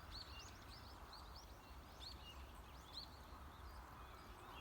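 Faint wild birdsong: many short chirps and arching whistled notes, busiest in the first three seconds and thinning out after.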